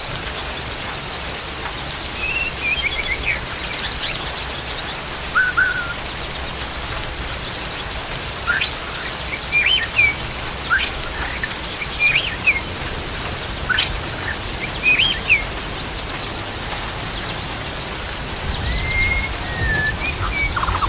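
Birds giving scattered short chirps and quick whistled notes, some sliding up or down in pitch, every second or so over a steady background hiss.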